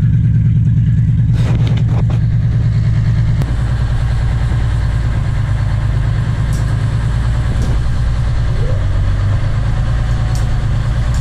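Inboard marine engine of a tour boat idling steadily, freshly started. A few knocks come about a second and a half in, and the engine note drops slightly about three seconds in.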